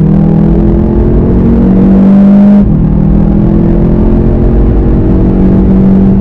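The 2019 VW Golf GTI TCR's turbocharged four-cylinder engine pulls hard under full acceleration, rising steadily in pitch. About two and a half seconds in it makes a quick upshift, a sudden drop in pitch, then climbs again. It is heard from inside the car.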